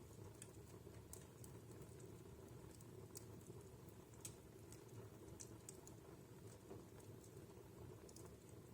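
Wood fire crackling in a fireplace: faint, irregular sharp pops and ticks over a low, steady rumble.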